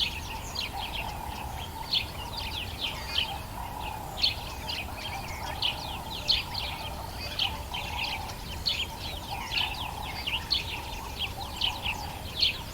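Dawn chorus of many wild birds: a dense, continuous run of short chirps and whistles from several birds at once, over a steadier lower background drone.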